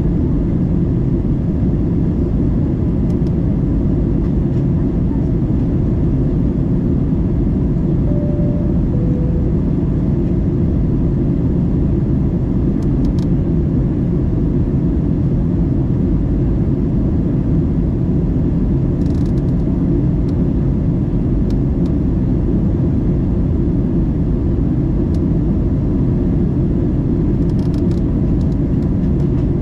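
Steady, loud rumble of an airliner cabin in flight during the descent: a deep, even roar of engine and airflow noise. About eight seconds in, a short two-note falling chime sounds.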